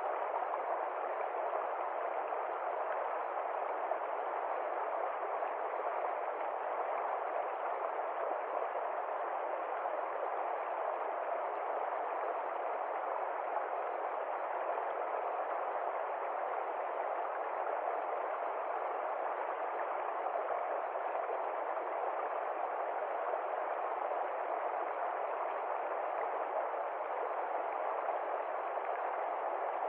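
Steady, even rushing of flowing water, unbroken and without separate splashes or drips.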